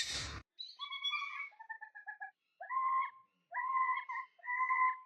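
A parrot calling in clear whistled notes: first a string of short notes stepping down, then three longer calls, each sliding up at its start. Before the calls, a burst of noise cuts off abruptly within the first half second.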